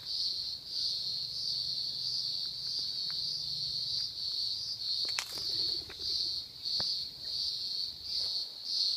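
Cricket chirping steadily, about two chirps a second, with a single sharp click about five seconds in.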